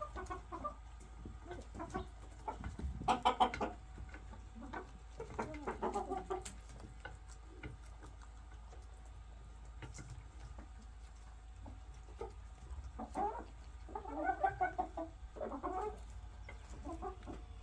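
Chickens clucking in scattered bursts several seconds apart.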